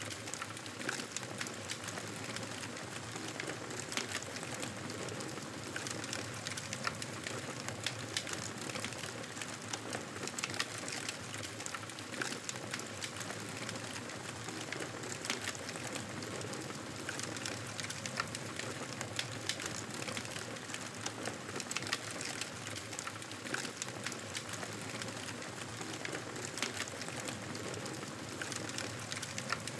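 Campfire burning, a steady hiss with frequent small crackles and pops scattered irregularly throughout.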